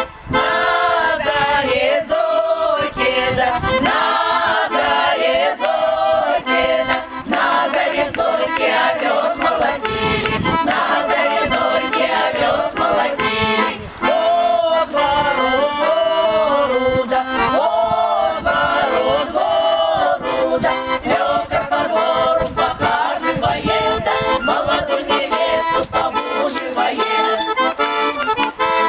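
Instrumental folk-style music led by an accordion, playing a continuous melody.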